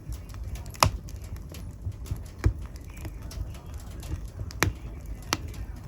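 Wood fire burning in a fireplace: a low steady rumble with scattered sharp crackles, four of them loud pops.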